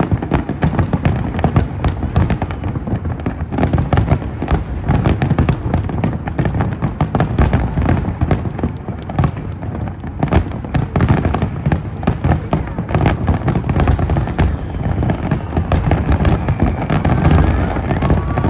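Large aerial fireworks display: a dense, continuous barrage of bursts, many rapid cracks over a deep rumble of booms.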